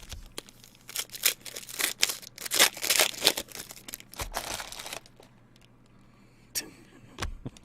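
Foil wrapper of a trading-card pack crinkling and tearing as it is opened and the cards handled: a dense run of crackles for about five seconds, then a few single clicks near the end.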